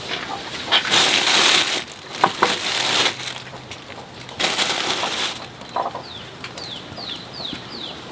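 Chickens feeding: clucking, short scuffling and flapping noises, and two loud bursts of rustling. Near the end comes a run of short falling high peeps, about two a second, like chicks calling.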